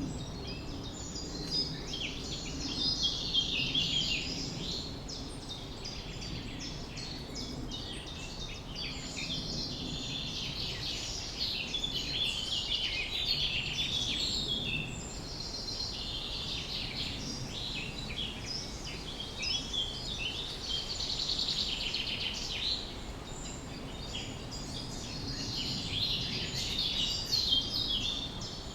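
A chorus of several songbirds chirping and trilling at once, dense and continuous, over a steady low background rumble.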